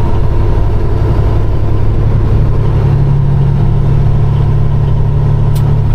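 Peterbilt 389 semi truck's diesel engine running under load in a steady low drone, pulling a little harder and higher about two seconds in.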